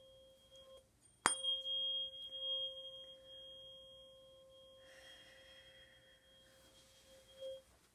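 A tuning fork struck once, about a second in, then ringing on a single steady pitch for about six seconds before it stops near the end, used for Biofield Tuning sound healing to close the session. A soft rustle is heard in the middle of the ringing.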